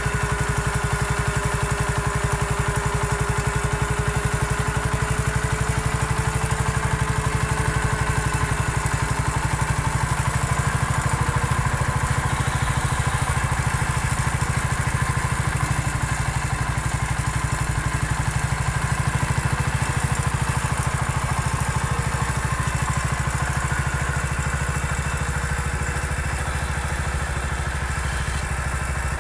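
Massey Ferguson MF 14 garden tractor's small engine running steadily under work, its pitch wavering slightly as the load changes.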